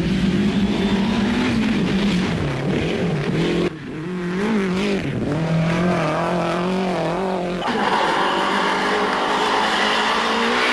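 Rally car engines revving hard, the pitch rising and falling with throttle and gear changes, in three short clips that cut abruptly into one another about a third and two-thirds of the way in.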